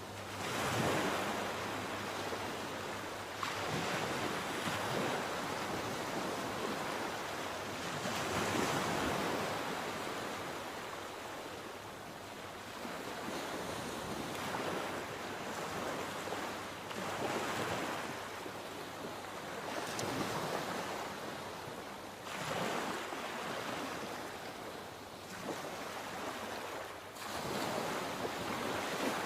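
Sea waves breaking and washing ashore, surges coming every few seconds over a continuous rush of surf.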